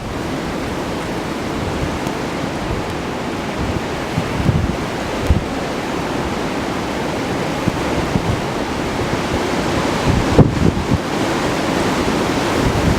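Blizzard wind rushing steadily, driving snow, with gusts buffeting the microphone a few times in low thumps.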